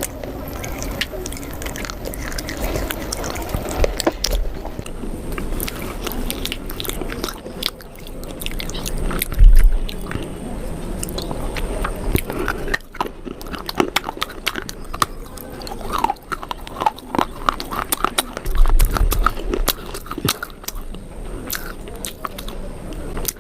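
Close-miked biting and chewing of pieces of baked clay pot: many short, sharp crunches and crackles between softer chewing, with a few heavy low thumps.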